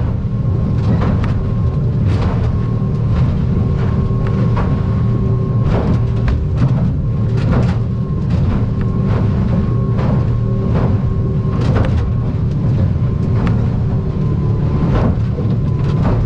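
Aluminium boat hull running fast through rough chop, its outboard engine giving a steady low drone. Irregular slaps and thuds of waves and spray striking the hull come roughly once or twice a second.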